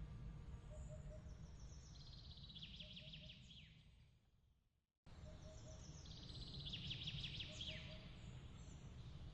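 Faint birdsong: chirps, quick trills and falling notes, over a low steady rumble, with short triple pips repeating in the background. The track fades to silence and restarts abruptly about five seconds in, repeating the same calls as a loop.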